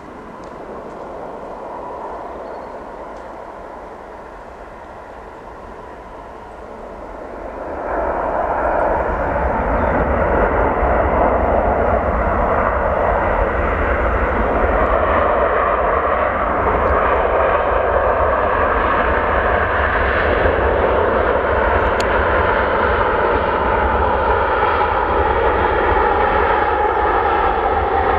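Airliner passing close by: its engine noise swells sharply about eight seconds in and then stays loud, a rushing roar with several steady whining tones in it.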